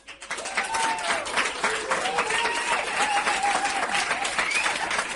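Applause: a dense, even patter of many hands clapping, with faint crowd voices under it.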